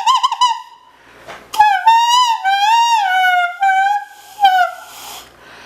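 Saxophone played for odd effects: a high, fast-wavering note cuts off about half a second in, then after a pause a run of high sliding and bending notes with short breaks.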